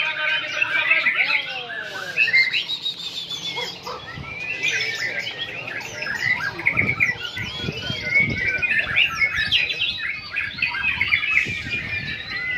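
Several white-rumped shamas singing at once, a dense run of overlapping whistled phrases and quick trills, with a few low thuds midway.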